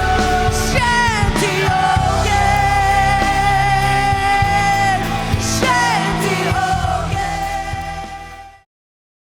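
Live worship band music with a singing voice gliding between held notes over steady drums and bass, fading out and stopping about eight and a half seconds in, followed by silence.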